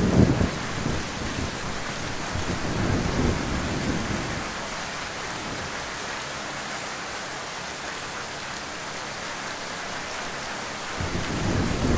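Heavy rain falling in a steady hiss. Low rumbles are heard at the very start, again about three seconds in, and rising near the end.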